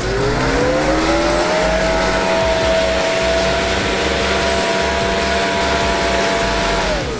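A four-wheel drive's engine revving up under load on a slippery, rutted mud climb. The revs rise over about two seconds and are held high and steady, then drop off near the end.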